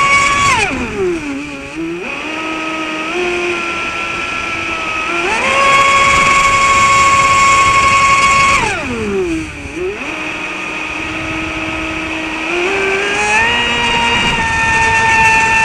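Traxxas Spartan RC boat's brushless motor whining at high speed, running on a 3S LiPo. The pitch drops sharply about half a second in as the throttle is let off, then climbs back in steps to full speed about five seconds in. Near nine seconds it drops again and then steps back up toward the end.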